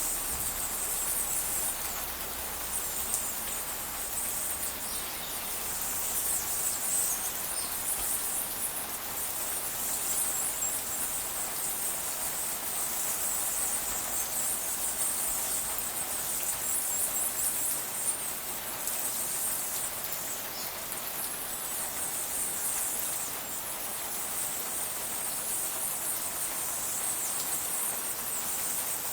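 Steady rain falling, with a continuous high-pitched insect chorus pulsing over it.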